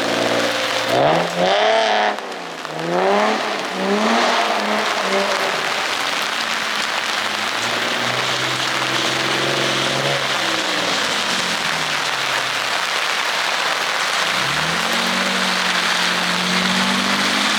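Drift car's engine revving up and down on a wet track: several quick blips in the first few seconds, then longer rises and falls in pitch, over a steady rush of noise.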